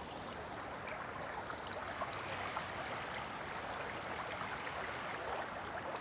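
Small creek running steadily, a constant rush of water with light gurgling.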